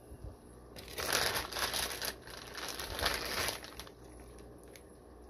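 Plastic fish-shipping bag crinkling as it is handled and opened, a busy stretch of crackling that starts about a second in and dies away just before the fourth second.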